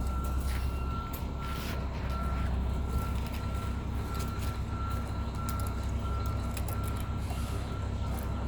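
A vehicle's reversing alarm beeping repeatedly over a steady low engine rumble, with a few light clicks and rustles.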